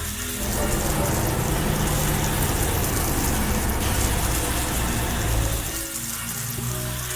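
Background music with a loud, steady rushing noise like gushing water over it, which starts just after the beginning and eases off about a second before the end.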